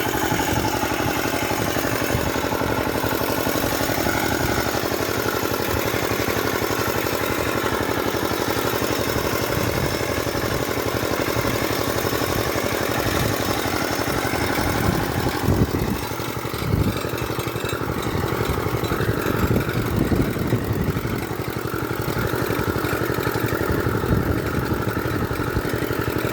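Engine of a small farm tractor running steadily, with its sound dipping and surging a few times partway through.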